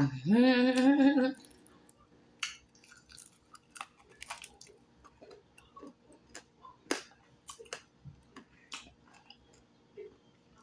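Close-miked chewing of crispy deep-fried turtle: irregular sharp crunches and wet mouth clicks about every half second to second. A woman's voice is heard briefly at the start.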